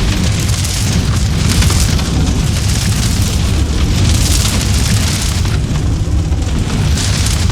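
Log fire burning in a fireplace with a steady low rumble, crackling and hissing that swells and fades every second or two.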